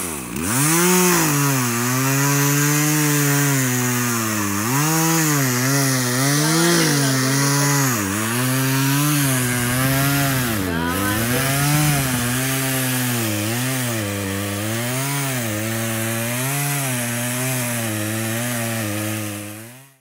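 Chainsaw cutting wood, its engine pitch repeatedly sagging under load and picking back up as the chain bites and clears. It cuts off abruptly at the very end.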